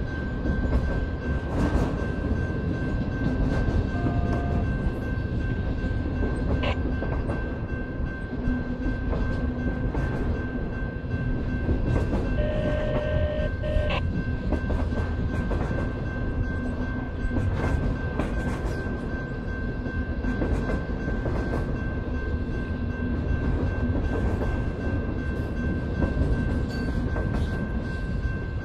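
Long freight train of loaded flatcars rolling past: a steady rumble of wheels on rail with irregular clacks over the joints and a thin, steady high ring throughout.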